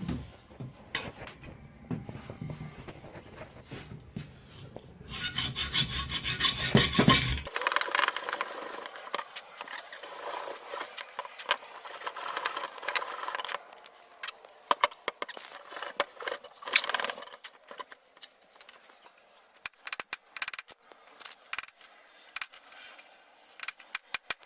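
Hand work on car parts: repeated rubbing and scraping with scattered sharp clicks and knocks. The low background hum drops out abruptly after about seven seconds.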